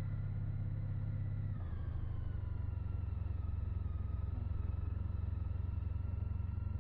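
Motorcycle engine running steadily at low speed, heard from the rider's position as a continuous low drone that drops slightly in pitch about a second and a half in.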